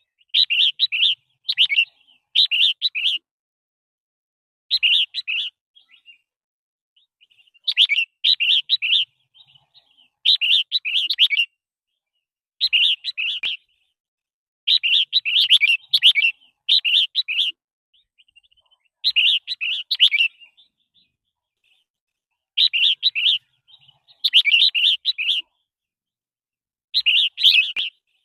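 Red-whiskered bulbul singing: about a dozen short phrases, each roughly a second long, repeated with pauses of one to two seconds between them.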